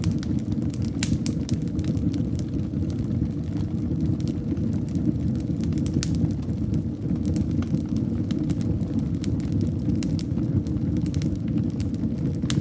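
Wood fire in a fireplace burning, a steady low rumble of flames with frequent irregular crackles and sharp pops.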